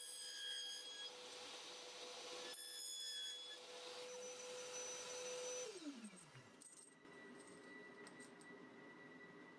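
A power saw's motor runs with a steady whine through two short cuts into aluminium U-profile, each cut adding a harsh, ringing screech. About six seconds in the saw is switched off and the motor winds down, its pitch falling away.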